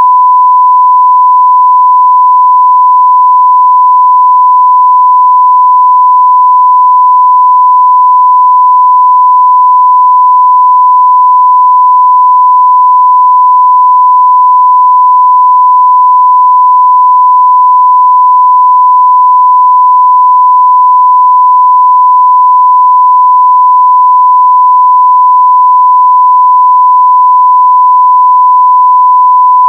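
Continuous 1 kHz sine-wave test tone at full scale (0 dBFS): one steady, pure pitch that does not change.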